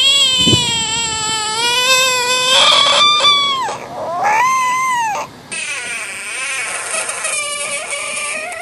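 An animal screaming: one long, wavering cry, then two shorter cries that rise and fall, then a fainter drawn-out cry.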